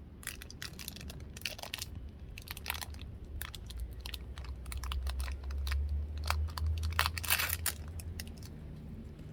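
Irregular crackling and clicking from hands working slime-making materials, with a low rumble swelling about halfway through.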